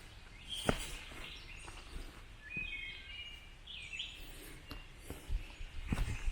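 Songbirds singing in woodland, short high phrases including a quick repeated trill in the middle, with a hiker's footsteps thudding on the trail, one early and several near the end.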